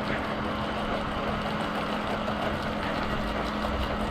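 Steady motor hum from the wash rig with the even hiss of water spraying from the soft-wash line.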